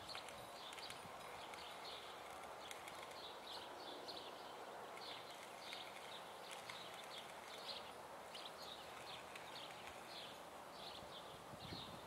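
Small birds chirping, faint, in quick irregular short notes, over a low steady hiss of outdoor background noise.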